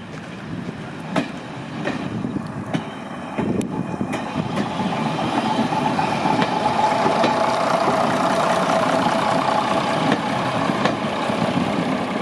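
A heritage railway train running on the line, a rumble growing louder with a few sharp clanks early on, and a steady high-pitched tone from about five to eleven seconds in.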